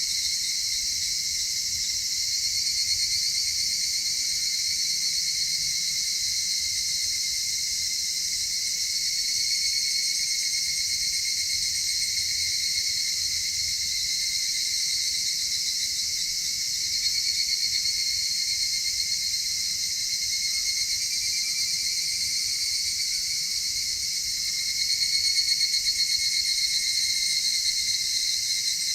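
A dense chorus of singing insects, a steady high-pitched trilling made of several overlapping voices, swelling slightly twice near the end.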